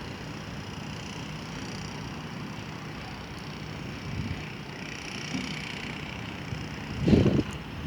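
Steady railway-station background noise with a faint low hum, and wind buffeting the microphone; a strong gust hits the microphone about seven seconds in.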